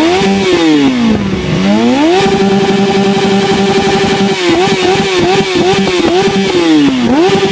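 Motorcycle engine held at high revs against its rev limiter, a loud steady high note. The revs fall away and climb back about a second in, stutter quickly up and down a few times around the middle, and drop and climb again near the end.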